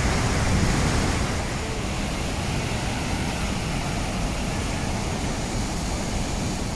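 Rhine Falls waterfall rushing: a dense, steady wash of water noise, heaviest in the low end, without breaks or any pitched tone.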